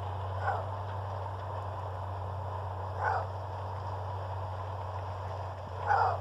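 Maned wolf giving its roar-bark: three short, harsh calls about three seconds apart, each louder than the last, over a steady low hum.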